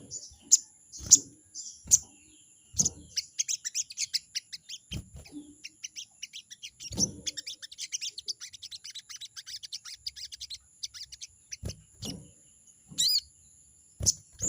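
Sogon (crimson sunbird) giving its rapid 'crecet' chatter: sharp high call notes, then a long fast run of short chattering notes, and a looping whistled note near the end. These are agitated challenge calls to a rival. Dull thumps are heard between the calls.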